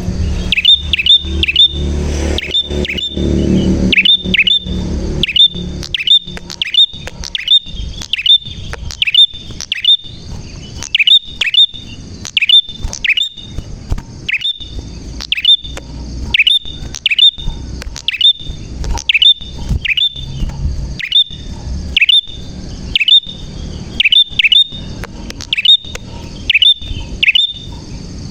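Prenjak (prinia) singing: a long run of sharp, high chip notes, each sweeping quickly down in pitch, repeated about one to two times a second. A low rumble sits under the first few seconds.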